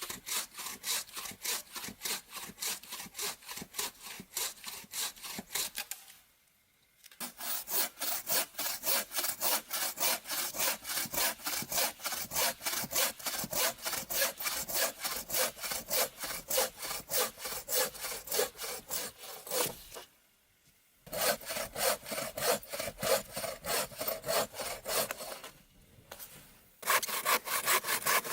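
Bow saw cutting dry spruce firewood with quick, even back-and-forth strokes, breaking off briefly a few times.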